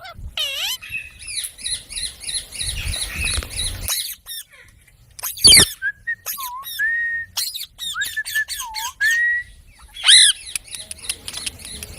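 Pet parrot chattering and squawking: a run of quick calls, a loud screech about halfway, then short whistled notes and another loud call near the end.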